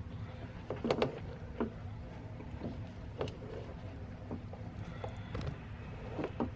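Two spoons knocking and scraping against a pot while fried rice is stirred and tossed, in short irregular clicks, over a steady low background hum.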